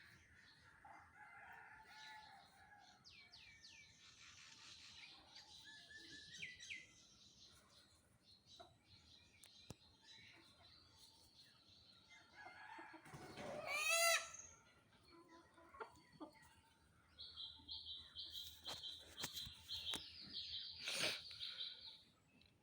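Rooster crowing once, loudly, about two-thirds of the way in, with small birds chirping earlier and a fast high-pitched repeated bird call over the last few seconds.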